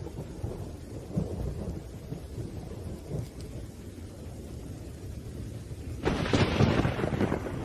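Thunderstorm with rain: low thunder rumbling, then a sudden, louder thunderclap about six seconds in that fades over a second or so.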